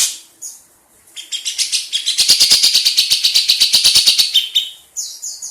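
Grey-cheeked bulbul (cucak jenggot) calling: a sharp falling note, then a fast rattling trill of about ten notes a second lasting some three seconds, and another short falling note near the end.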